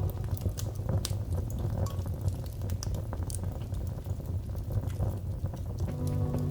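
Wood fire crackling: many small irregular pops and snaps over a low steady rumble. Soft background music comes back in near the end.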